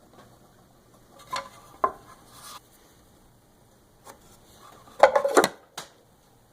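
A few hard knocks and clatters of solid objects being handled and set down: two knocks about a second and a half in, a short scrape, then a louder run of clattering knocks about five seconds in.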